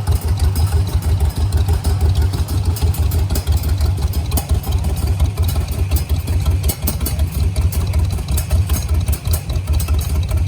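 Antique tractor engines running slowly at low idle: a steady, low, pulsing chug.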